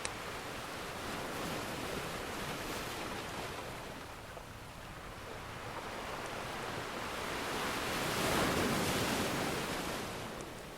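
Ocean surf washing in waves, easing off and then swelling to a louder wave break about eight seconds in before falling away again. A few faint crackles of a fireplace sound now and then.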